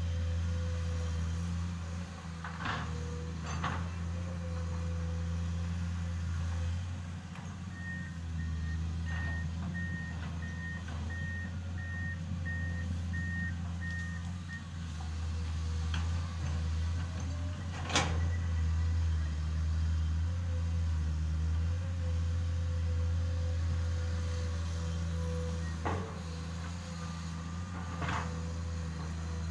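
Diesel engine of a working excavator running steadily, with an alarm beeping evenly for several seconds in the middle. Several sharp knocks sound over it, the loudest about eighteen seconds in.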